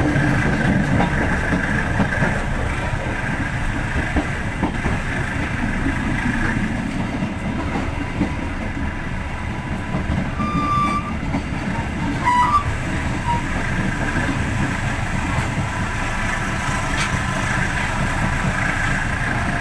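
Moving passenger train heard from inside an economy coach: a steady rumble of wheels on the track. A couple of brief high tones sound about halfway through.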